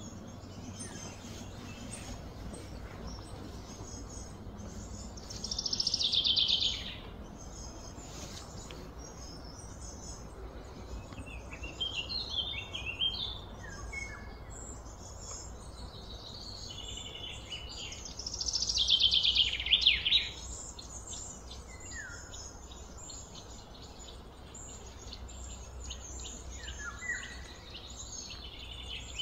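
Birds singing over a steady outdoor background. A fast trilled phrase that falls in pitch comes twice, about six and nineteen seconds in, with shorter chirps in between.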